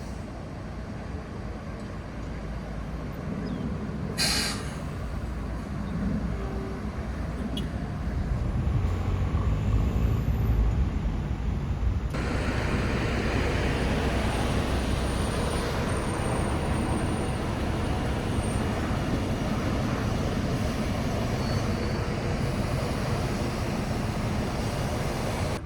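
Tour boat's engine running steadily, with rushing water and wind noise. A sharp click comes about four seconds in, and about twelve seconds in the rushing hiss grows louder and stays up.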